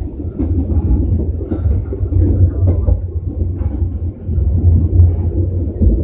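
Moving passenger train heard from inside the carriage: a steady low rumble of the car running along the track, with a few faint ticks and rattles.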